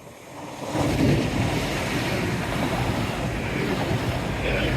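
Sea waves surging against the seawall, mixed with wind buffeting the microphone. The rush rises about half a second in and stays loud.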